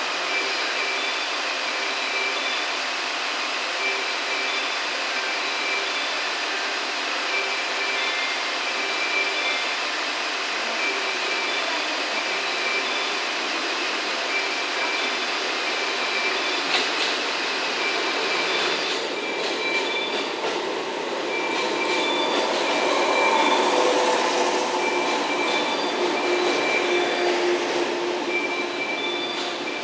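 JR West 117 series four-car electric train running into the platform and braking, with wheel and brake squeal loudest a few seconds before the end. Through the approach a steady noise is broken by a repeating on-off electronic tone.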